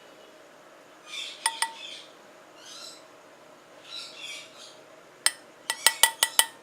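A spoon clinking against a cup: two ringing clinks about a second and a half in, then a quick run of about seven near the end. Birds chirp at intervals in the background.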